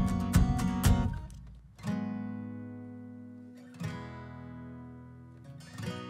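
Background music on acoustic guitar: a quick rhythmic strumming for the first second, then slow chords struck about every two seconds and left to ring out.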